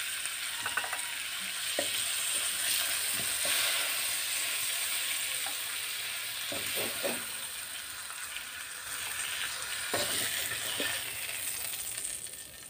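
Pork sizzling as it fries in oil in an aluminium wok, a steady hiss with a few sharp clinks against the pan. The sizzle dies down near the end.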